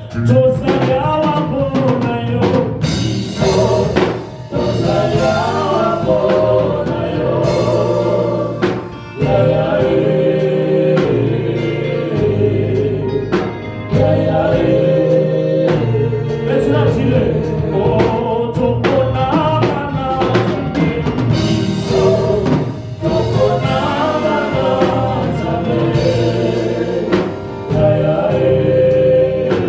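Live gospel worship music: voices singing together over a band with drum kit and low bass notes.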